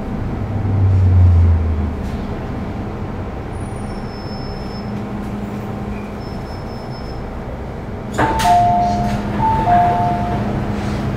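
Steady rumble of a vehicle in motion, with a low thud about a second in. About eight seconds in, a click is followed by a two-note chime that sounds twice.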